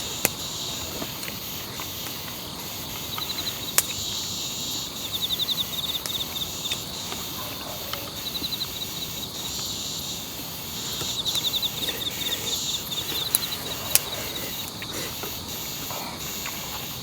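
Insects calling: bouts of fast pulsed trills recur every few seconds over a steady high-pitched insect hiss. A few sharp clicks sound on top.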